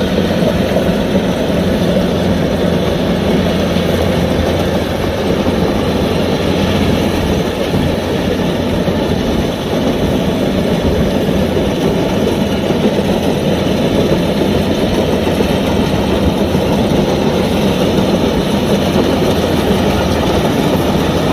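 Kubota DC-105X combine harvester running steadily, a constant heavy diesel engine and machinery noise that does not change.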